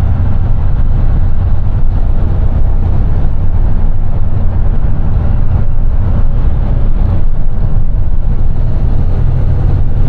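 Small box truck driving, heard from inside the cab: a steady low drone of engine and road noise that holds even throughout.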